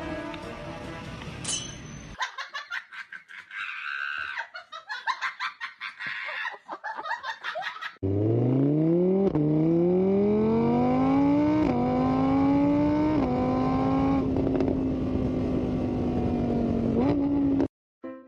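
A vehicle engine accelerating. Its pitch climbs and drops back several times, like gear changes, then holds steady before cutting off abruptly near the end. Before that, a few seconds of quick, choppy clicking.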